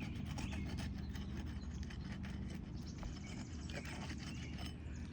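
Asphalt shingles being unsealed, a tool working under the tabs with irregular scraping and crackling as the sealant lets go, over a steady low rumble.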